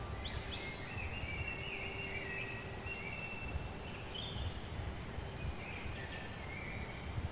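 Small birds chirping and singing in short warbled phrases over a constant low rumble.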